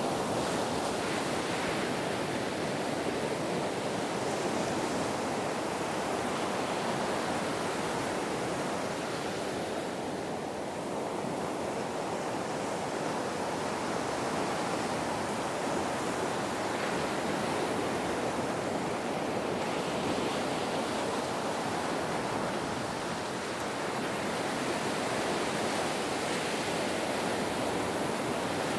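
Ocean surf washing in a continuous steady rush, easing off slightly twice without a break.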